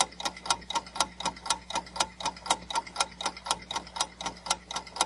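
Clock-ticking sound effect of a quiz countdown timer: even, sharp ticks at about four a second over a faint steady hum, marking the time left to answer.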